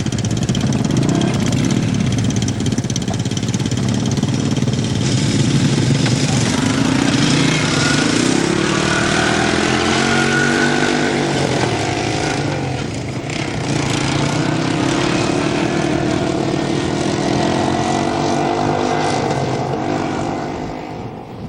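All-terrain vehicle engines running as the ATVs ride off, the engine pitch rising and falling as they rev and change gear.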